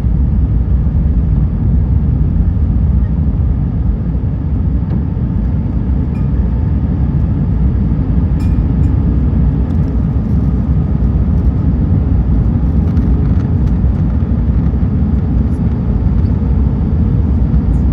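Steady low rumble of jet engine and airflow noise inside an Airbus A320 cabin.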